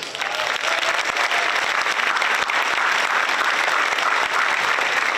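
Large audience applauding steadily: many people clapping together in a hall.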